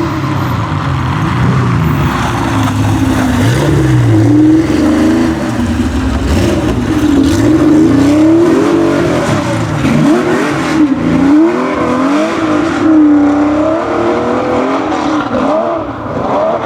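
Historic Porsche racing car engine running hard, its pitch rising and falling again and again as it revs up and drops back.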